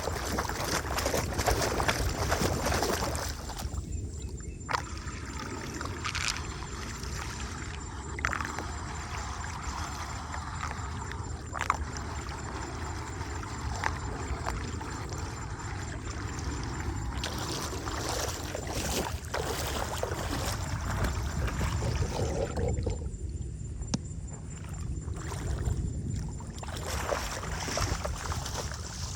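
Water running and gurgling, over a steady low rumble, with a few scattered knocks.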